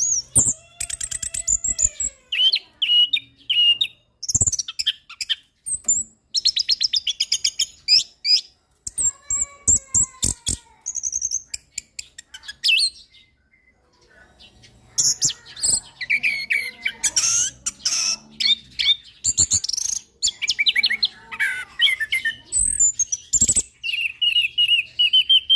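Orange-headed thrush singing a long, varied song of fast trills, rattling runs and clear whistled notes, with a short pause about halfway through.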